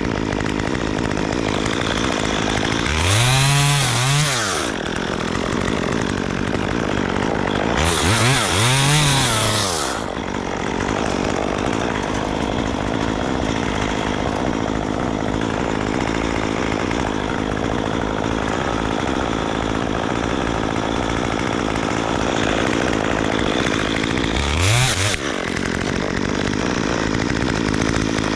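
Chainsaw engine running steadily, revved up and let back down three times: a few seconds in, again around eight seconds, and briefly near the end.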